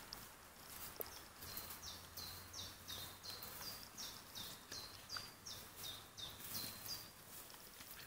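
A songbird singing a fast series of repeated two-part notes, each dropping from a higher pitch to a lower one, about three a second; the song starts about two seconds in and stops about a second before the end. A few faint clicks and rustles of handling are heard around it.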